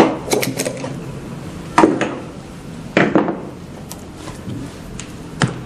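Hard objects being handled during a machine repair: a handful of separate sharp knocks and clatters, the loudest two about two and three seconds in, with a fainter one near the end.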